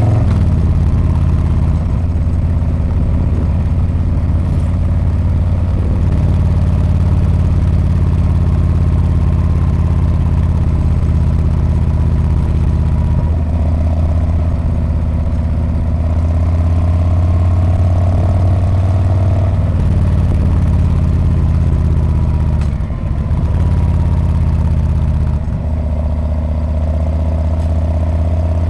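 Harley-Davidson Street Bob's V-twin engine and exhaust running steadily while riding, a deep low rumble with two brief dips in level near the end.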